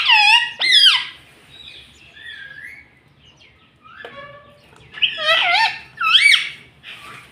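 Pet parrot calling in loud, swooping whistles. There are two calls near the start, softer calls in the middle, and two more loud calls about five and six seconds in.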